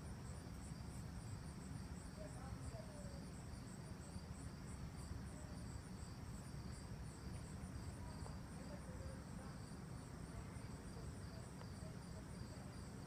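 Crickets chirping steadily, a high pulsing trill at about four pulses a second, over a low steady rumble.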